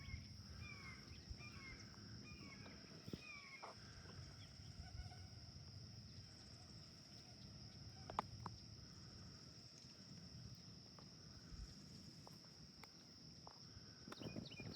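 Faint bird calls over a steady high insect drone. A few short calls come in the first few seconds, and a quick series of clicks comes near the end.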